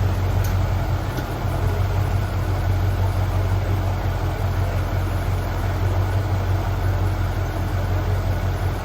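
Car engine idling steadily, a low even drone with no revving.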